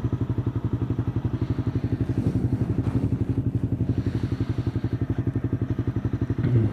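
Motorcycle engine running steadily at cruising speed, its exhaust beating in a rapid, even pulse.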